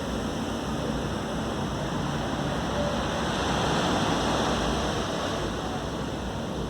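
Ocean surf: a steady wash of waves that swells to a peak about halfway through and then eases off.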